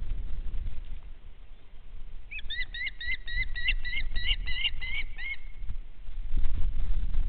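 A small bird singing: a quick series of about a dozen like chirps, about four a second, starting about two seconds in and lasting about three seconds. A low rumble swells near the end.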